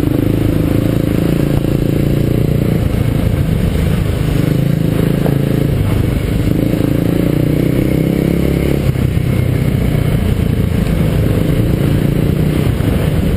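Kawasaki KLX250 single-cylinder four-stroke dual-sport engine running under way on a dirt road, its note climbing and dropping back several times with the throttle and gear changes.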